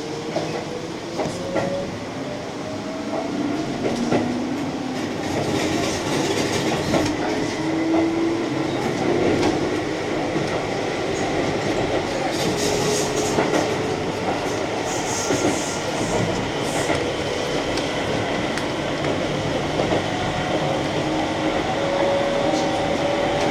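Keihan electric train running on the line, heard from inside the car: a motor whine rising in pitch over the first few seconds as it picks up speed, then holding steady, over the rumble of the wheels with scattered clicks from the rail joints.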